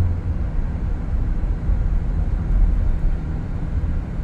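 Steady low rumble of a car moving along the road, heard from inside the cabin.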